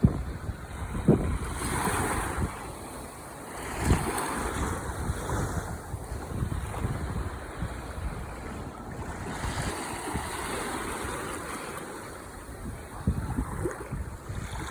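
Ocean waves breaking and washing on the shore, swelling and easing every few seconds, with wind buffeting the microphone in low thumps.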